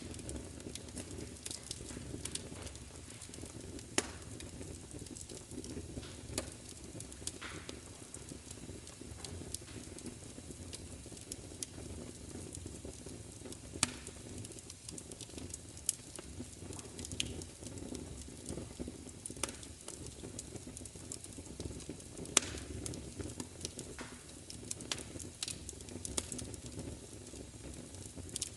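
Crackling fire: a steady low rumble of burning with irregular sharp pops and snaps, a second or a few seconds apart.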